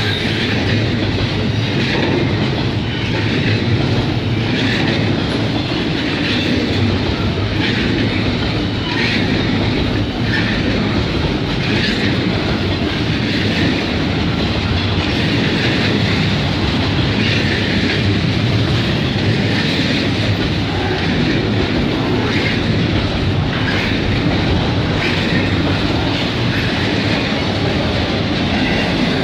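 Steel wheels of a CN freight train's double-stack container cars rolling past close by: a steady rumble with a repeated clickety-clack from the wheels on the rails.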